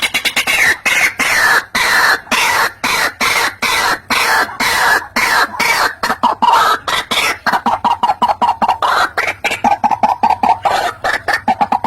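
White-breasted waterhen (ruak-ruak) calling a loud, continuous series of harsh croaking notes, about four to five a second, played as a lure call for trapping.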